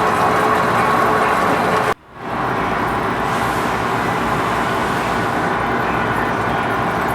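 Lathe running under a cut on a large pot-bearing part: a steady machine noise with a few held tones. It drops out suddenly about two seconds in, then comes back with a lower hum.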